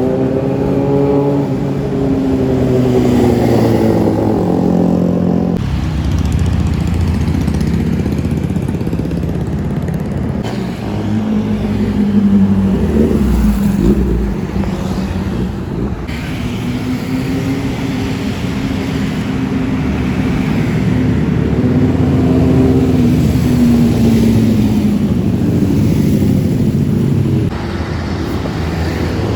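Sports car and superbike engines revving and driving past, one after another, their pitch rising and falling. The sound changes abruptly several times as one pass gives way to the next.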